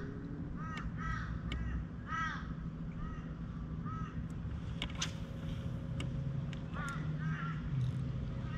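Birds calling over and over in short arched calls, over the steady low hum of a small 3 hp outboard motor running. There is a sharp tap about five seconds in.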